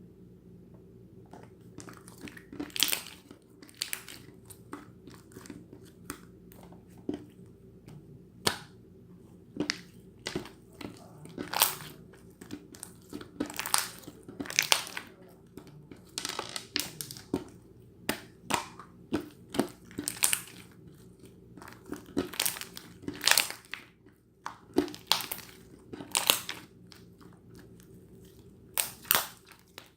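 Hands pressing and stretching pearl slime, giving off irregular bursts of crackling and popping clicks over a steady low hum.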